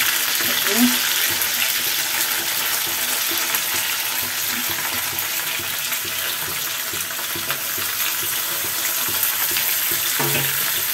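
Flat beans and potato pieces sizzling in hot oil in a pan as they are tipped in: a steady frying hiss.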